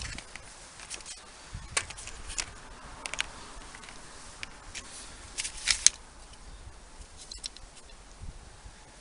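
Hand tool snipping and clicking on cable: scattered sharp snaps, several close together around five to six seconds in, the loudest near six seconds.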